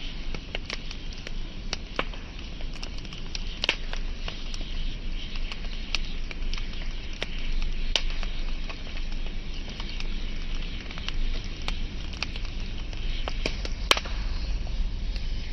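Wood fire burning with steady crackling: a constant hiss under irregular sharp pops and snaps, with a few louder pops scattered through, over a low rumble of the flames.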